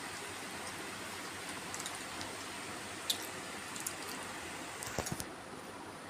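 A person eating kheer with puri: scattered small wet clicks and squishes of chewing and mouth sounds, with a short cluster about five seconds in, over a steady hiss.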